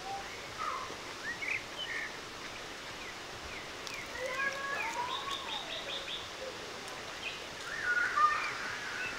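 Songbirds singing: scattered chirps and whistled phrases, with a quick run of repeated high notes about five seconds in, over a faint outdoor background hiss.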